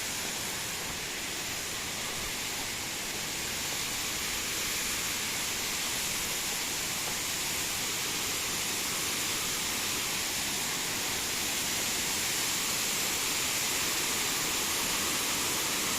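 Steady rushing of a river's flowing water, growing slightly louder over time.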